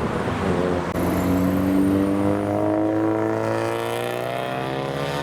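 Turbocharged modified car's engine accelerating, its pitch rising steadily from about a second in, over a steady low engine hum.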